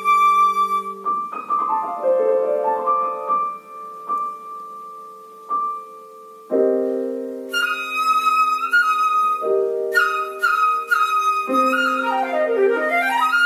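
Flute and piano playing a classical duet. A held flute note gives way to a falling run of piano notes, then a softer stretch. From about halfway, piano chords return under quick, ornamented flute figures.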